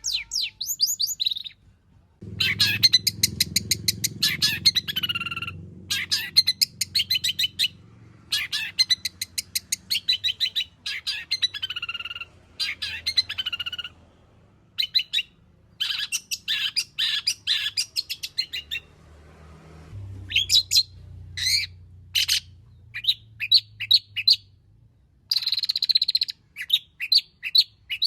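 Long-tailed shrike singing a fast, varied song packed with mimicked phrases of other birds, in quick bursts of rapid high notes separated by short pauses.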